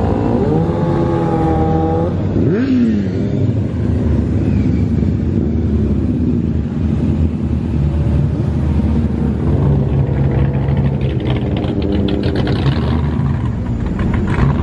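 Car engines running at low speed, with a quick rev blip about two and a half seconds in and engine tones swelling again near the end.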